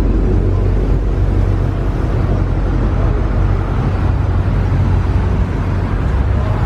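2020 Shelby GT500 supercharged 5.2-litre V8 engines idling close by: a steady, deep low rumble with no revving.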